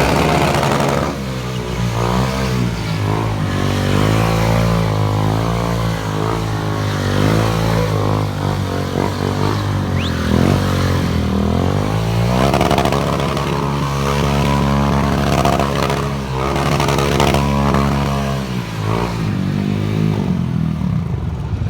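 Stunt motorcycle's engine revving hard during a stunt routine, the revs rising and falling continuously, then held higher and steadier about twelve seconds in before dropping back near the end.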